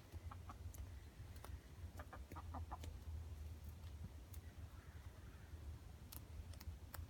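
Hens clucking softly a few times, with scattered faint clicks over a low steady rumble.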